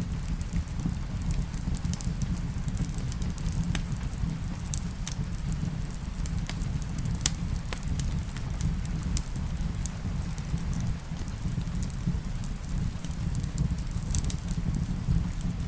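Wood fire crackling in a fireplace, with scattered sharp pops (the loudest about seven seconds in), over a steady low rumble of rain.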